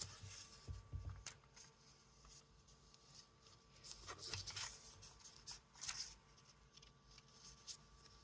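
Faint handling of paper and stamping supplies: scattered light taps and clicks with short paper rustles, busiest about four seconds in and again around six seconds.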